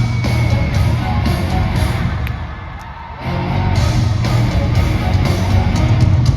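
Live gothic metal band with orchestra playing an instrumental passage with electric guitars and a heavy low end. The music thins out briefly about halfway through, then comes back in full.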